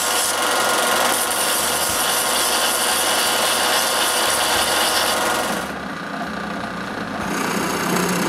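Wooden dowel end being sanded round: a steady abrasive rubbing that eases off a little about two-thirds of the way through, then picks up again near the end.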